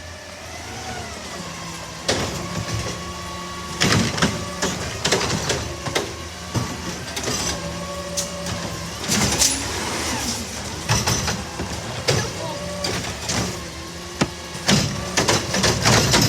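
Garbage truck working its route: the engine and hydraulics run with pitch rising and falling, while bins and metal bang sharply again and again, many times and most densely near the end.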